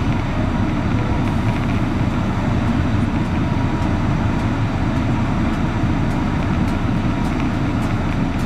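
Cessna 152's four-cylinder Lycoming engine and propeller making a steady drone, heard from inside the cockpit.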